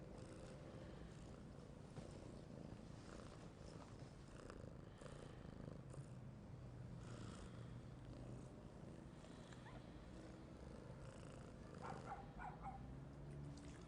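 A cat purring quietly and steadily.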